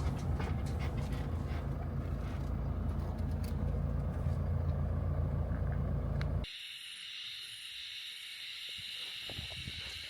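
Low, steady rumble of a van on the move, with scattered clicks, for about six seconds. It then cuts off abruptly to a quieter, steady high-pitched insect chorus with a few faint soft taps.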